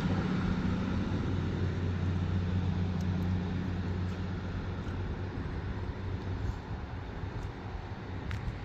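Diesel train engine hum, steady in pitch and gradually fading away.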